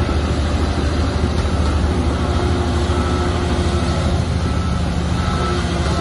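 Shantui crawler bulldozer's diesel engine running steadily, a low, even drone with a few brief faint whines above it.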